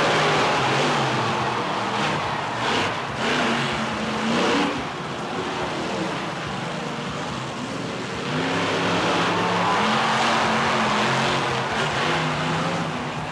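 Blue Max monster truck's engine revving hard and easing off over and over, its pitch stepping up and down, with brief louder surges in the first few seconds.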